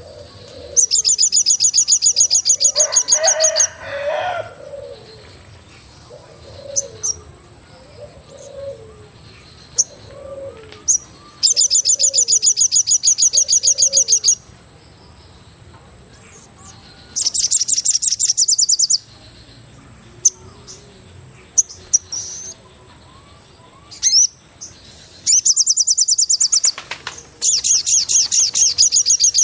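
Forest bird chorus: five loud bursts of rapid, high, repeated chirping notes, each lasting two to three seconds. Between the first two bursts comes a run of short, lower calls, with a faint steady high whine underneath.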